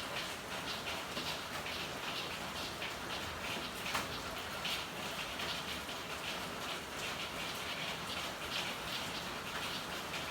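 Steady rain falling, with a dense patter of drops and small splashes, and one sharper tick about four seconds in.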